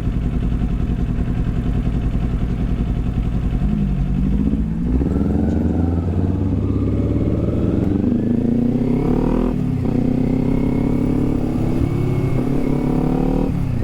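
Kawasaki Z400 parallel-twin engine running low and steady, then accelerating from about four seconds in, its note climbing, with an upshift drop at about nine and a half seconds and another near the end.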